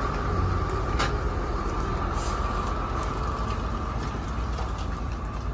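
Heavy truck engine running with a steady low rumble, a constant higher hum over it, and a single sharp knock about a second in.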